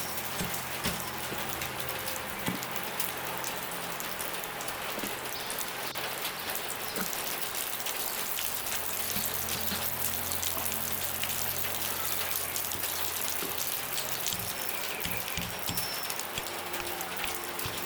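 Steady rain falling, with many separate drop hits, over a low steady hum.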